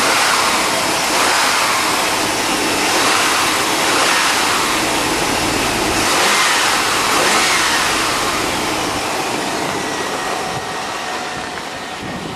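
1997 Chevrolet Silverado's fuel-injected Vortec V8 (a 350, by the owner's reckoning) being revved, the engine note rising and falling every second or two, then easing back toward idle near the end.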